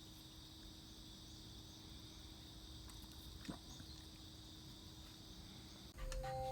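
Faint, steady high-pitched insect chirring in a quiet outdoor background, with one brief falling sound about halfway through. Music starts near the end.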